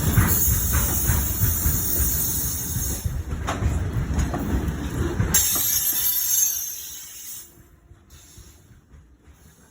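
Train wheels squealing on the rails, a high-pitched screech over a heavy rumble of the passing train; the sound dies away about seven seconds in.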